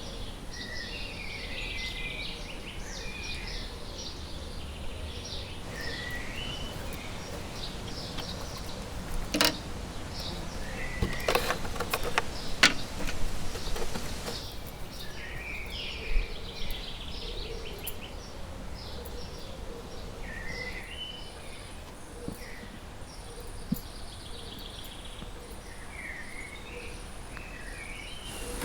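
Songbirds singing repeated short chirping phrases over a low background rumble, with a cluster of sharp knocks or clicks about a third of the way through.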